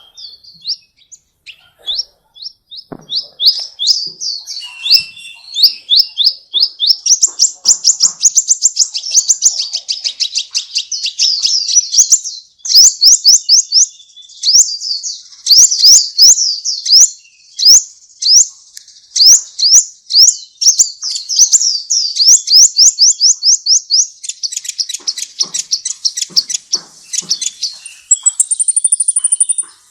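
A songbird singing a fast, unbroken string of sharp, sweeping chirps, with a brief higher trill near the end.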